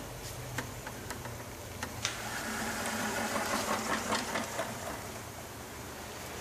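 Cardboard model helicopter's rubber-band-driven rotor spinning, a rattling buzz that starts about two seconds in and dies away about three seconds later as the band unwinds, after a few light clicks.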